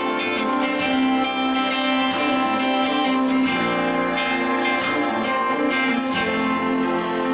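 Worship band music with a strummed guitar and held chords at a steady level, instrumental with no singing.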